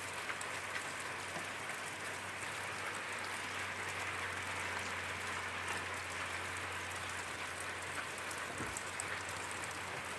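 Steady rain falling: an even hiss with scattered ticks of individual drops, over a faint steady low hum.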